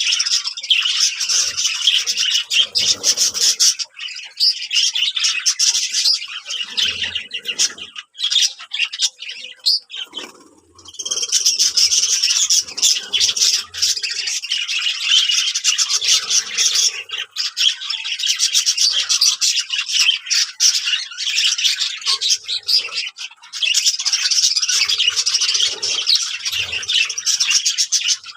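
Many small birds chirping rapidly and continuously, with a brief lull about ten seconds in.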